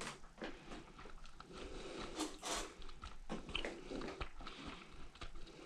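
Irregular clicks and rustling handling noises, with a short hissing burst about two seconds in.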